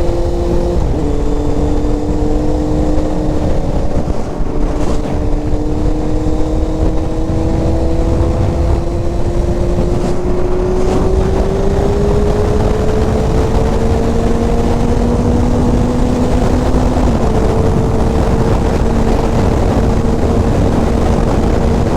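Inline-four sport bike engine pulling hard at speed. Its pitch climbs slowly and drops sharply at an upshift about a second in and another late on, over a heavy rush of wind noise.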